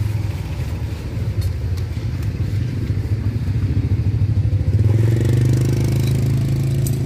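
A small engine running steadily with a low hum, growing a little louder about five seconds in.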